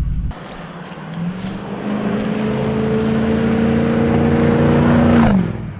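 A motor engine accelerating, its pitch climbing steadily for about four seconds, then dropping off sharply near the end.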